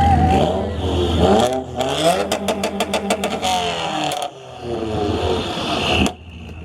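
Car engine revving hard, rising and falling in pitch, with a rapid run of sharp pops in the middle.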